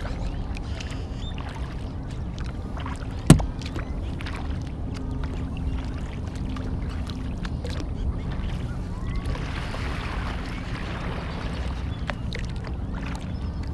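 Kayak being paddled: paddle blades splashing and dripping water over a steady low rumble, with one sharp knock about three seconds in and a longer swishing splash a little past the middle.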